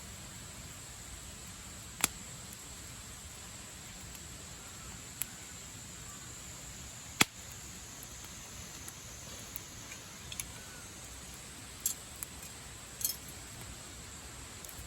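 Wood campfire burning over a steady hiss, with sharp pops and crackles from the wood. The two loudest pops come about 2 and 7 seconds in, with a few smaller crackles later on.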